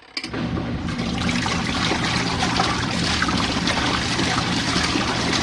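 Portable RV washing machine starting its wash cycle: the motor switches on suddenly a moment in and the agitator churns the water in the tub steadily, a sloshing noise with a low motor hum beneath.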